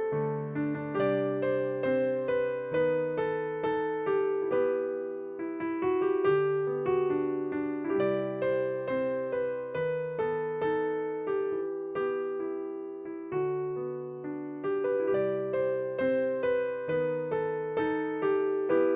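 Kurzweil PC4 stage keyboard playing a slow hymn on a piano sound: chords over held bass notes, each struck and left to fade.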